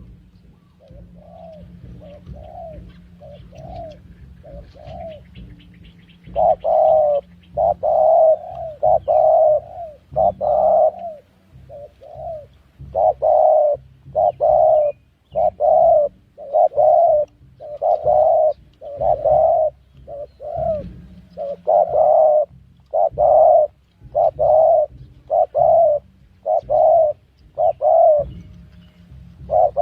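Spotted dove cooing over and over in repeated phrases of low coos, faint for the first few seconds and then loud and close. A small bird chirps faintly early on.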